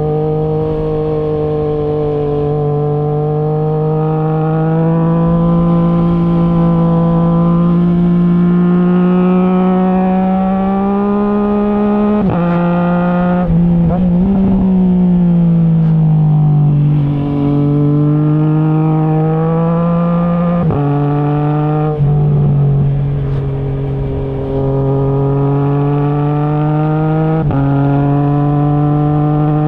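Triumph Trident 660 inline three-cylinder engine running loud through a Zard stainless full exhaust with the baffle removed. The pitch climbs steadily under throttle, breaks sharply a few times at gear changes, and falls away and rises again as the bike slows and accelerates.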